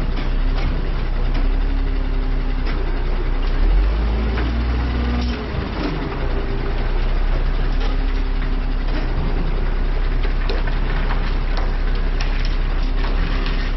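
Heavy truck diesel engine running steadily, with scattered metallic clicks and knocks over it. The engine surges briefly about four seconds in, then drops for a moment before settling back.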